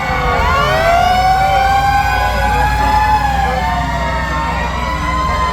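Several fire truck sirens wailing at once, their pitches rising and falling out of step with one another, over the steady low rumble of truck engines.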